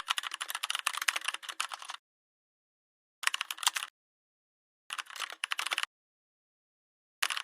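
Typing on a computer keyboard: four bursts of rapid key clicks, the first about two seconds long and three shorter ones after it, with dead silence between them.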